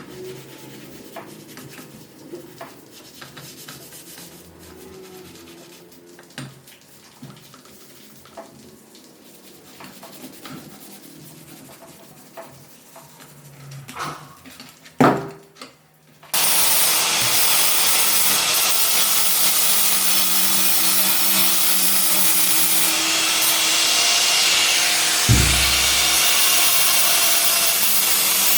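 Scattered light clicks and knocks of tools and parts being handled, with one sharp knock about halfway. Then a power tool starts abruptly and runs steadily with a loud hissing noise, with a low thump near the end.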